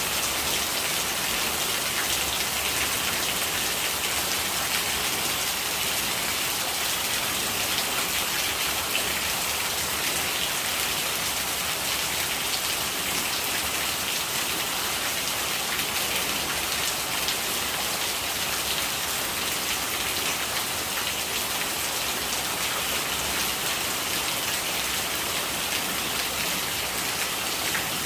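Steady rain falling: an even, high hiss full of small drop ticks.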